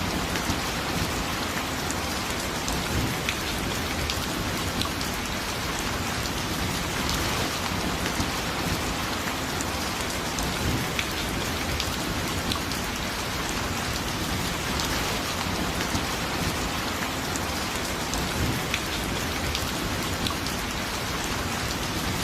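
Light rain falling steadily, with scattered drops ticking sharply close by.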